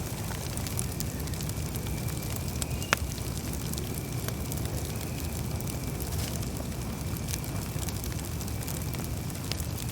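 Campfire crackling, with irregular sharp snaps over a low steady rumble of the flames and one loud pop about three seconds in.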